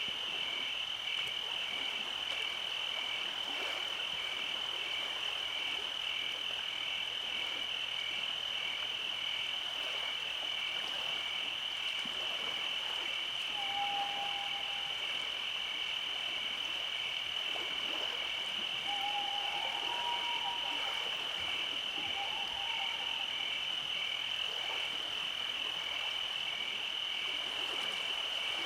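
Nighttime insect chorus: a steady high trill, with a second caller chirping in an even pulse about twice a second. A few short, lower trills come in around the middle.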